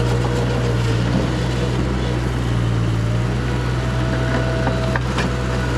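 Mini skid steer's engine running steadily at constant speed, a low even drone, with a brief faint whine near the middle and a single click late on.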